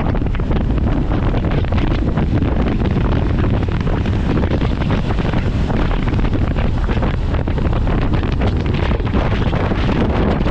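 Wind rushing over the microphone of a motorcycle on the move, a steady loud rumble heaviest in the low end, with riding noise underneath.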